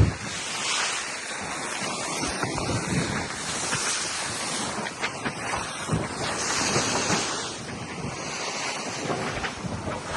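Wind buffeting the microphone over the steady rush of sea water along a sailing yacht's hull, with one sharp knock at the very start and a few light clicks.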